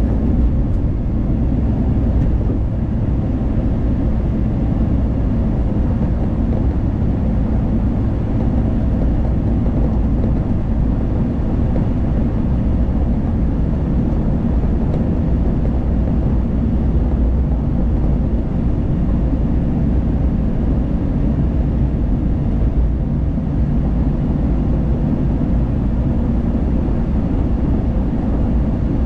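Steady low rumble of a car driving at speed, road and engine noise heard from inside the cabin.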